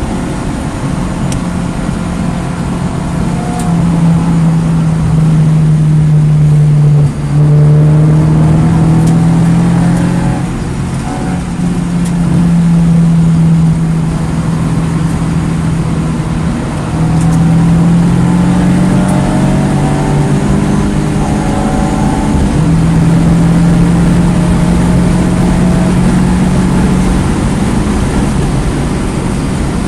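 2009 Mini Cooper S's turbocharged four-cylinder engine running hard at speed on track. It pulls for long stretches and eases off several times, with short breaks in the engine note as it shifts gear or lifts.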